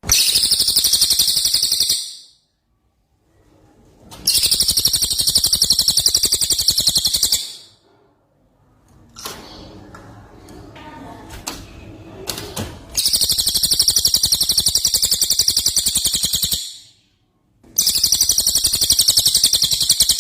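Green leafbird (cucak ijo) singing its fast, high-pitched 'tembakan' bursts in imitation of a cililin: four long, rapid trills of two to four seconds each, with a quieter stretch of softer calls and a few clicks in the middle.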